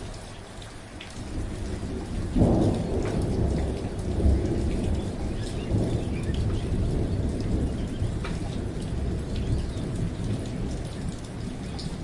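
Steady rain with a roll of thunder: a deep rumble builds about a second and a half in, breaks into its loudest crack soon after, then rumbles on and slowly fades.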